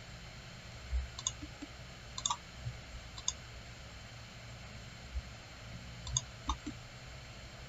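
Computer mouse buttons clicking: a handful of short sharp clicks, some in quick pairs like double-clicks, scattered over several seconds above a steady low hum.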